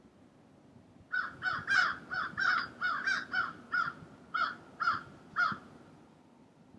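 A bird giving a rapid series of about a dozen short calls, starting about a second in, the gaps between them lengthening toward the end.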